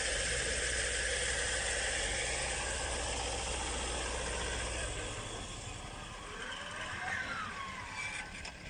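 Vehicle engine running steadily with road noise, its low rumble easing off about five seconds in.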